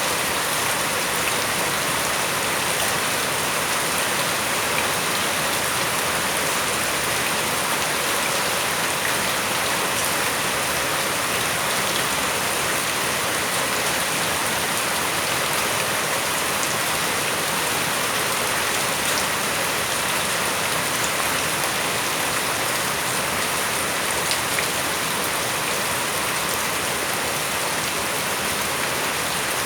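Steady heavy rain falling on surfaces, a constant hiss with scattered drop ticks.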